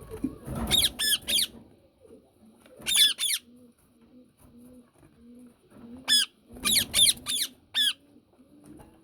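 Indian ringneck parakeet screeching in short, shrill squawks: a burst of three about a second in, one a couple of seconds later, then a run of five near the end. A low cooing repeats steadily underneath.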